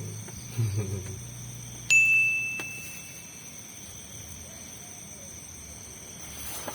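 A single ding about two seconds in: one clear, high ringing tone that fades away over about a second.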